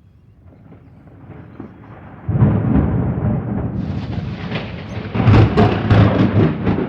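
Close thunder: a low rumble builds, then about two seconds in a sudden loud crack breaks into heavy crackling rumbling that surges again near the end. This is a near lightning strike, "seriously close."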